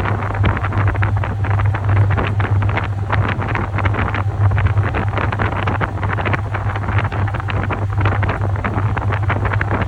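Top-loading washing machine running: water churning and sloshing in the tub over a steady low motor hum.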